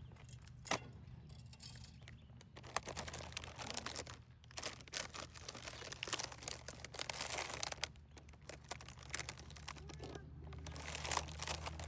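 Dense crackling and rustling, heaviest from about three to eight seconds in and again near the end, over a steady low hum.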